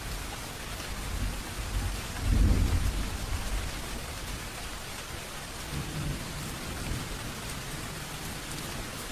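Steady rain with distant thunder, a low rumble swelling about two seconds in and a fainter one later.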